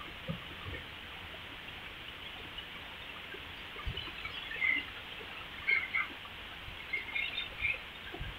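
Heavy rain falling, a steady hiss. From about three and a half seconds in, short high bird chirps come through it several times.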